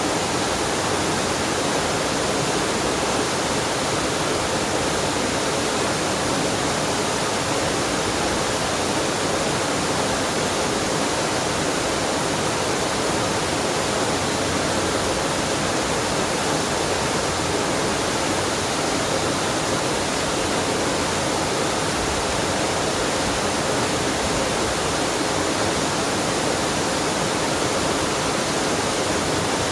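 Waterfall pouring into a mountain stream: steady rushing water, even and unchanging throughout.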